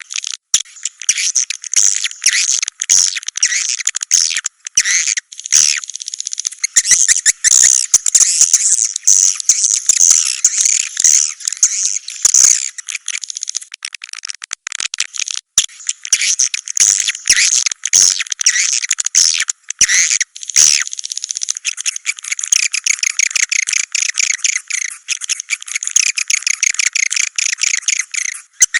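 Recorded swiftlet calls of the kind played as a lure to draw swiftlets into a nesting house: a dense, unbroken flock of rapid, high twittering chirps, with no low sound under them.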